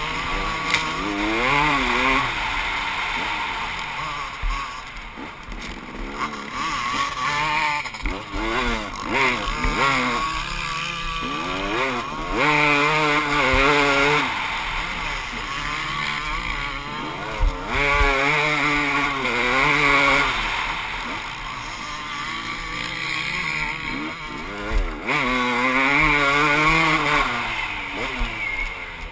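Motocross bike engine revving up and falling off again and again, its pitch climbing and dropping repeatedly as the bike is ridden around.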